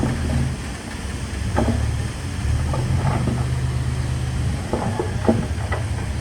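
A D21P bulldozer's diesel engine runs steadily under load, with several short metallic clanks from the machine, a cluster of them near the end.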